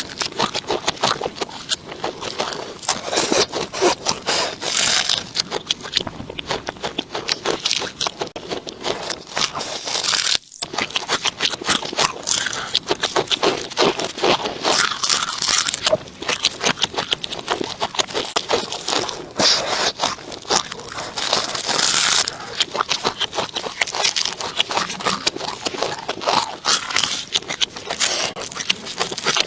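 Close-miked eating sounds: continuous crunching and chewing of crisp food, with a brief break about ten seconds in.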